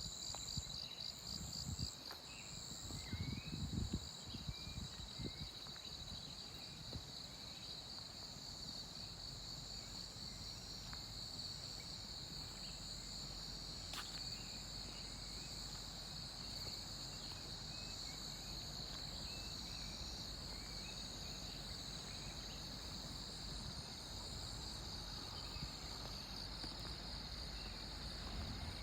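A chorus of forest insects keeps up a steady high trill that pulses rapidly in the first seconds, with faint bird chirps scattered through it. Low thumps of footsteps sound in the first few seconds.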